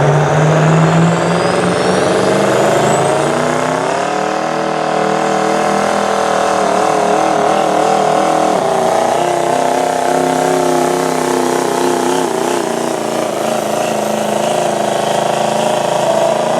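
Diesel pickup engine at full throttle pulling the sled in a truck pull. Its pitch climbs over the first four seconds, then holds high and wavers, and it cuts off suddenly at the end.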